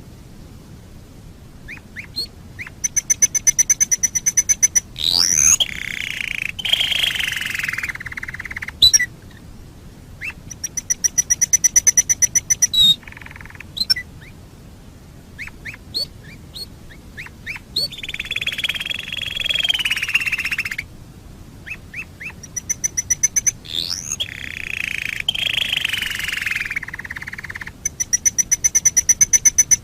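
Domestic canary singing: bouts of fast trills of a dozen or more notes a second, alternating with rolling, warbling phrases, the sequence repeating several times.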